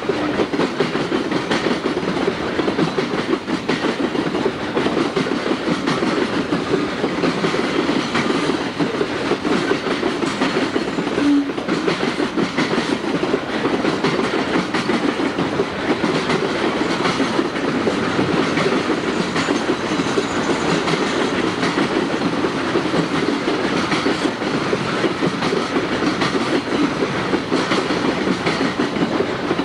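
Tropicana juice train's freight cars rolling steadily past, their wheels clicking over the rail joints in a continuous clickety-clack.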